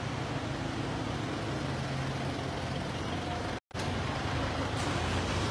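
Steady low rumble of vehicle engines echoing in an underground car park. The sound cuts out completely for a split second a little past halfway.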